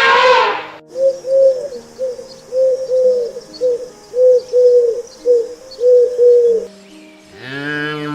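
A dove cooing: a run of about a dozen short, low coos. A louder call fades out in the first second, and a cow's moo begins near the end.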